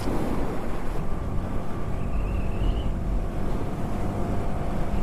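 Motorcycle engine running steadily under a heavy rumble of wind buffeting the microphone.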